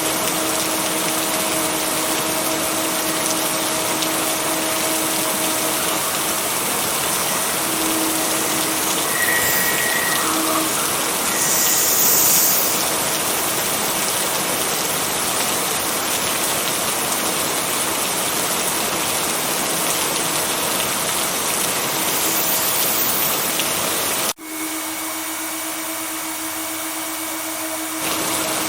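Steady heavy rain hiss with a faint steady hum under it. Near the end the sound cuts out abruptly and comes back softer and thinner for a few seconds before returning to full level.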